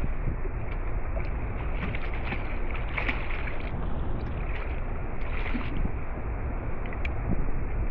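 Steady rumble of wind and water noise, with a few light clicks and knocks scattered through it.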